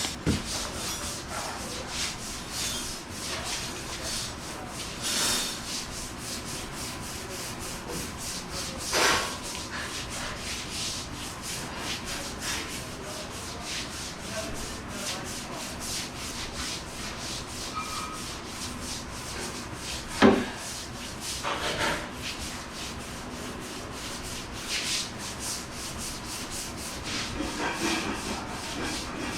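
A floor brush scrubbing a soapy, wet floor in quick repeated strokes, with one sharper knock about twenty seconds in.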